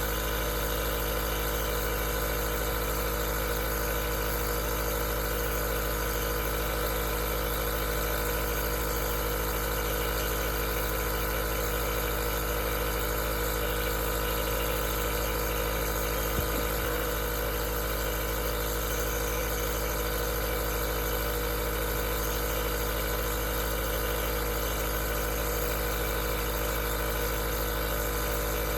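Aerosol nebulizer's compressor running steadily: a constant motor hum with a hiss of air over it, and one small click about halfway through.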